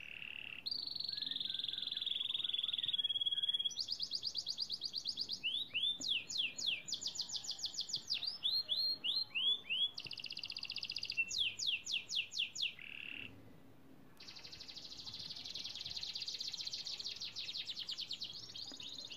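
A songbird singing: phrase after phrase of fast high trills, quick falling slurs and held whistling notes, with a short break about thirteen seconds in.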